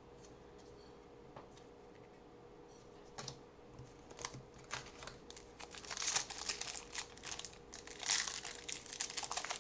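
Foil trading-card pack wrapper being handled and crinkled. Faint at first, with scattered crackles from about three seconds in, growing denser and louder toward the end.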